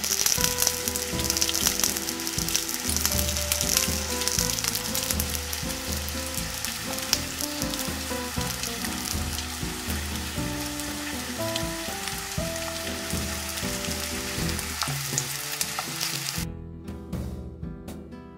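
Pierogies frying in a hot skillet, a steady crackling sizzle as they brown. The sizzle cuts off suddenly near the end, leaving only background music.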